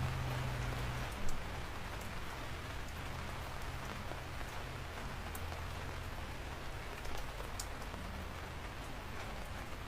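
Steady rain falling, with sharp drop impacts ticking here and there and a brief thump about a second in.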